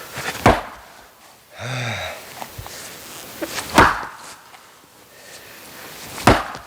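Axe striking oak firewood three times, about three seconds apart, each a sharp split-second crack.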